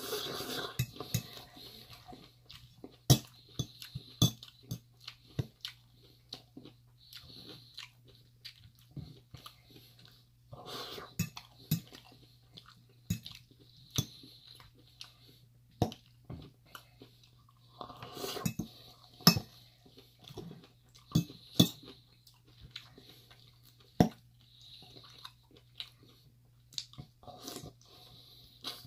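Close-up crunchy chewing of leafy salad greens, in bursts, with the sharp clicks and scrapes of a metal fork against a large bowl between mouthfuls.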